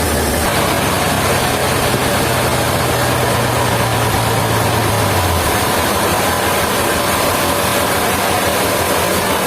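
Heavy engine-driven machinery running steadily and loudly, with a low hum that changes pitch just after the start and drops away about halfway through.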